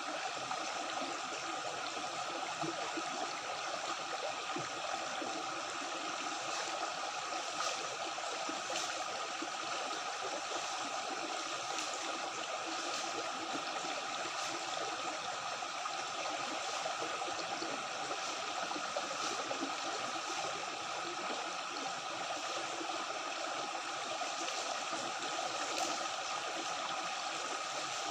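Stream water flowing and gurgling over rocks, a steady, unbroken rush.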